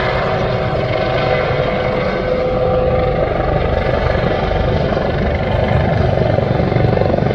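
Helicopter flying past, its rotor and engine running steadily and growing a little louder near the end.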